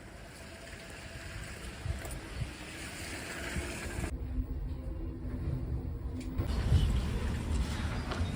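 A motor vehicle's engine rumbling and growing steadily louder.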